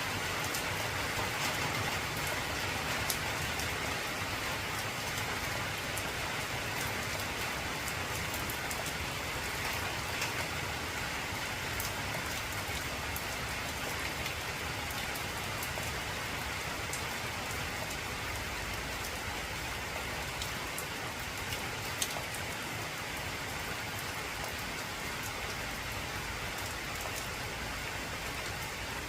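Heavy rain falling on an old corrugated zinc roof: a steady hiss with many sharp drop ticks on the metal scattered through it.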